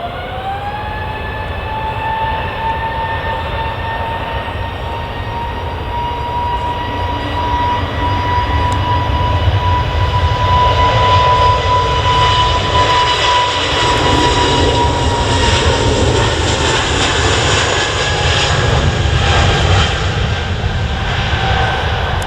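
Jet airliner's engines spooling up: a whine rising in pitch in the first second, then holding steady while a loud roar of high thrust builds and swells through the middle and eases slightly near the end.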